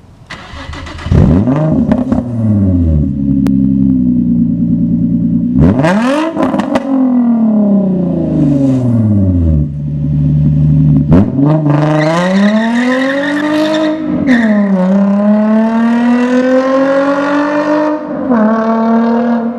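Nissan 350Z's 3.5-litre V6, warmed up and running through Manzo test pipes (catalytic converters deleted) into a straight-pipe exhaust, being free-revved loudly. Two quick revs about a second and about six seconds in fall back to idle, then from about eleven seconds in the engine is held at higher revs for several seconds at a time, dipping and climbing again.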